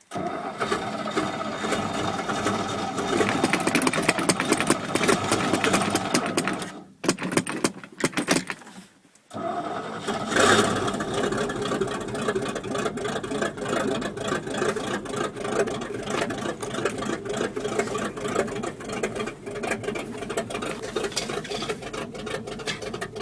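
1979 Chevy 350 V8 cranking on the starter, flooded with old gas. It stops for a moment and gives a short burst, then cranks again and catches about ten seconds in. It keeps running at a slow, uneven speed.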